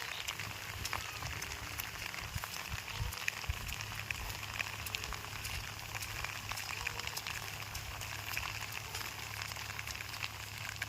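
Rain falling, with many individual raindrops ticking close by, over a steady low hum.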